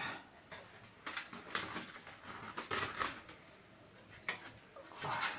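Kitchen handling noises: irregular rustles and light clicks and knocks, several of them, as a roasting pan with a goose under foil is worked on just out of the oven.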